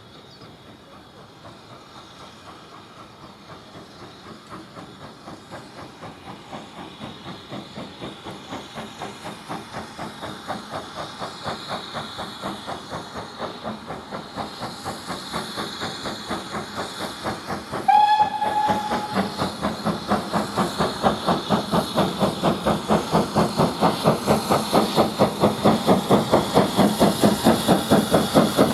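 Steam locomotive working under load, its rapid exhaust beats growing steadily louder as it approaches, with one short whistle blast about two-thirds of the way through.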